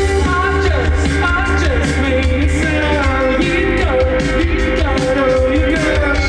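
Live rock band playing a song, with guitar, drums and bass and a voice singing over them.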